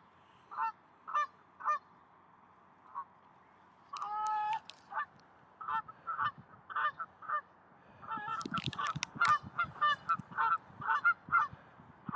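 Geese honking in short repeated calls. A few spaced honks come first, then from about eight seconds in a dense run of many overlapping honks, with low thuds underneath.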